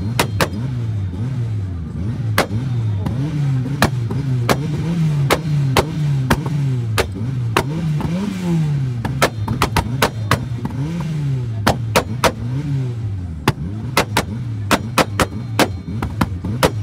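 A car engine revved over and over, its pitch climbing and dropping about once a second, with many sharp cracks scattered throughout.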